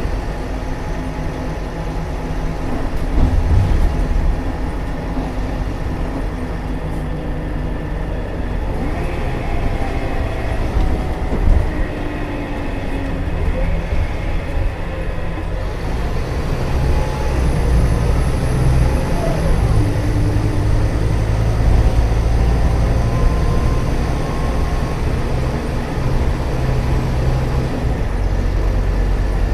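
Scania K320UA bus with a rear-mounted DC09 9.3-litre five-cylinder turbo diesel, running on the road. The engine note rises and falls as the bus pulls away and changes speed, and the low rumble grows louder in the second half.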